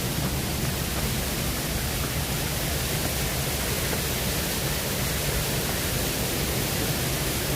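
Steady, even rush of falling water from a waterfall cascade.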